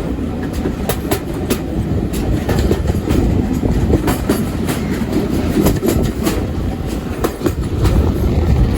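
Passenger train carriage running along the line, heard from on board: a steady low rumble with the wheels clicking irregularly over the rail joints.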